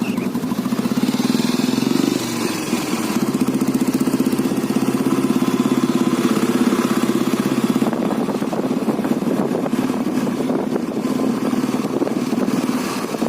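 Old Royal Enfield Bullet's single-cylinder engine running steadily with an even, pulsing beat.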